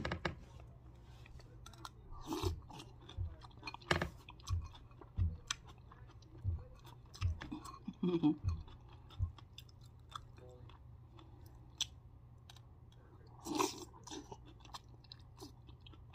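Close-up chewing and mouth sounds of someone eating gumbo over rice, a run of soft chewing thumps through the first half with scattered sharp clicks.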